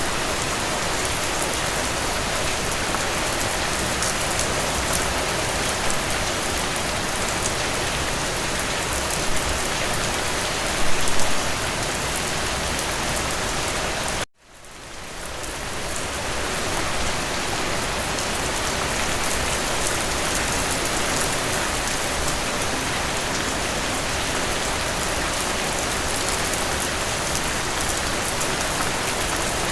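Steady rain falling, a dense even hiss with no thunder. About halfway through it cuts out abruptly for an instant, then fades back in over a couple of seconds.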